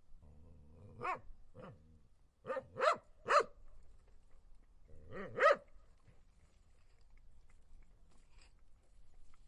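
A dog barking in short, sharp barks: one about a second in, a quick run of three around two and a half to three and a half seconds, and a close double bark around five seconds, then it stops.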